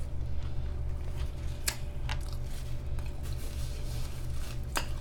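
A person chewing a mouthful of croissant sandwich, with a few sharp crunchy clicks, over a steady low hum.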